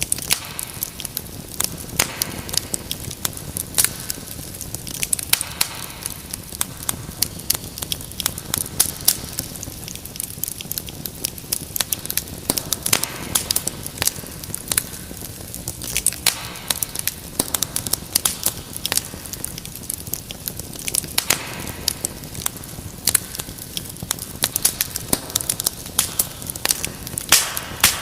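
Wood fire crackling steadily, with frequent sharp irregular pops and snaps over a soft hiss.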